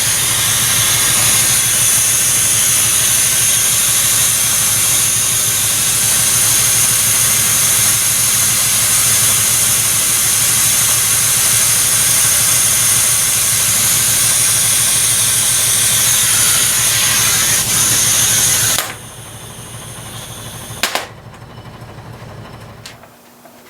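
A motor-driven shop machine running steadily with a loud hiss and a low hum, then cutting off abruptly about nineteen seconds in; a single click follows.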